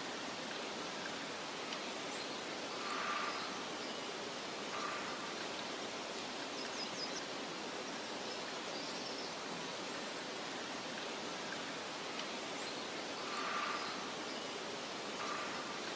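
Steady soft hiss of wind over a meadow, with faint bird calls about three and five seconds in that come back in the same order about ten seconds later.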